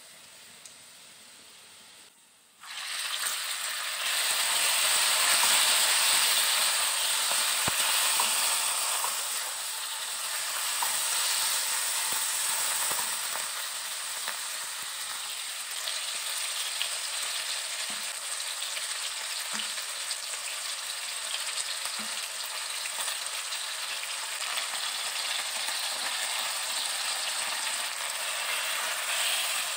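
Chicken pieces and garlic sizzling in hot oil in a wok. The sizzle is faint at first, breaks off briefly, then comes in loud about three seconds in and stays steady, with an occasional scrape and tap of the spatula.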